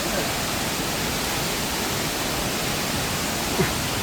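Steady rushing roar of a waterfall, an even wash of noise with no let-up. A brief faint knock sounds near the end.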